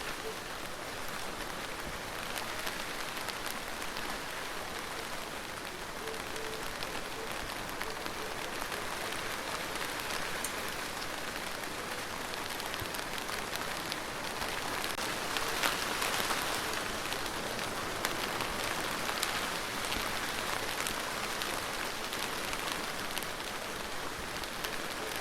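Steady rain falling, a dense hiss with scattered individual drop ticks. It grows a little heavier about fifteen seconds in.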